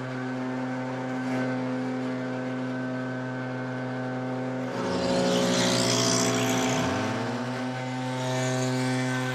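Two-stroke backpack leaf blower running at high throttle with a steady engine whine; about halfway through the revs dip and climb back up while the rush of air grows louder for a couple of seconds.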